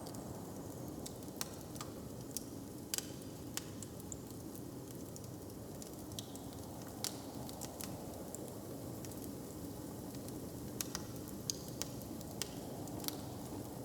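Wood fire crackling in a hearth, with sharp irregular pops every second or so over a steady low background.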